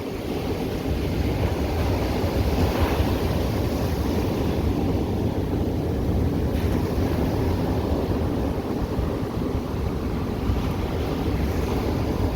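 Ocean surf washing steadily onto the beach, with a wave breaking more strongly about three seconds in, and wind rumbling on the microphone.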